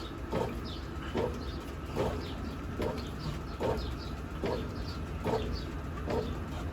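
Brastemp Ative 11 kg (BWL11) top-loading washing machine washing a load, a swishing stroke about every 0.8 s over a low steady hum.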